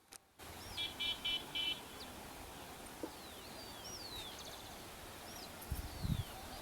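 Birds calling outdoors: a quick run of four harsh notes about a second in, then several clear whistles that slide downward in pitch. A few low thuds come near the end.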